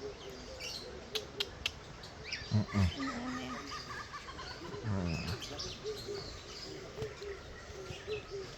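Mixed bird calls: a steady run of short repeated notes with scattered higher chirps, and two low calls that bend in pitch, one about two and a half seconds in and one about five seconds in.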